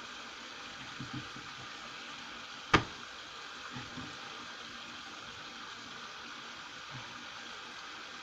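Kitchen items being handled and set down on a counter: one sharp knock a little under three seconds in and a few soft bumps, over a steady hiss.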